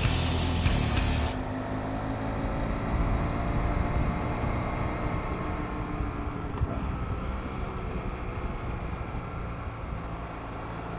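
BMW F800GS parallel-twin engine running under way, its pitch drifting gently, mixed with wind and road noise; a louder rushing hiss for the first second or so drops away abruptly.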